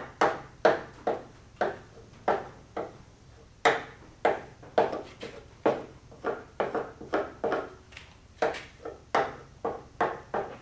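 A wooden body-lead paddle patting and shaping lead on a steel car trunk lid: a long run of light, sharp taps, about two to three a second and somewhat uneven, each ringing briefly in the sheet metal.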